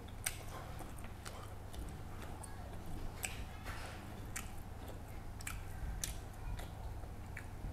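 A person chewing and smacking while eating fish and rice by hand, with irregular sharp, wet clicks scattered throughout.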